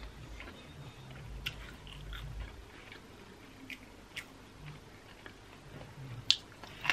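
A person chewing a mouthful of thick yakisoba noodles with closed lips: soft, wet smacks and small clicks at irregular intervals, with a sharper click near the end.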